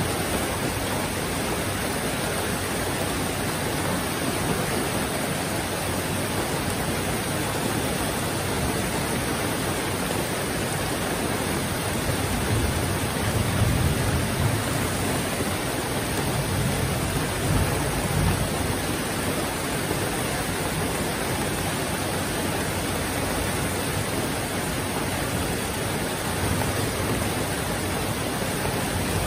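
Heavy rain falling steadily, a dense even hiss, with a few brief low swells about halfway through.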